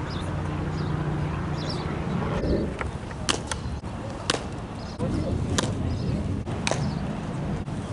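Sharp cracks of a softball striking, about five at irregular intervals from about three seconds in, over a steady low background noise.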